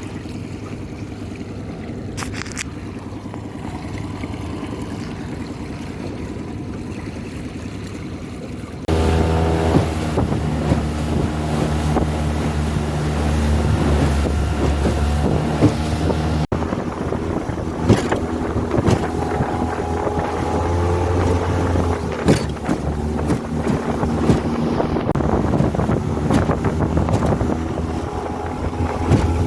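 Honda 20 hp four-stroke outboard running at a steady cruise on a small aluminium boat, with wind on the microphone and the hull knocking over chop. The engine sound steps up suddenly and gets louder about nine seconds in, then holds steady.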